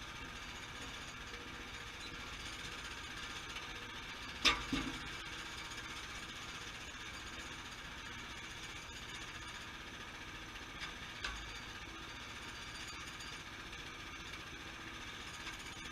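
Sawmill engine running steadily. A sharp knock comes about four and a half seconds in, and a lighter one near eleven seconds.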